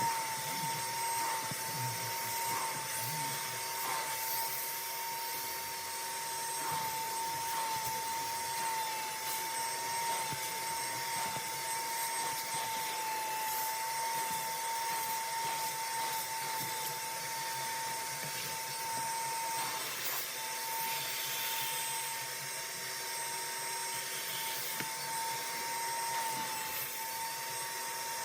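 Bissell Spot Clean Professional carpet extractor running steadily, its motor whining at one pitch over a rushing hiss of suction as it pulls dirty water out of stained cloth seats. The whine breaks off briefly about two-thirds of the way through.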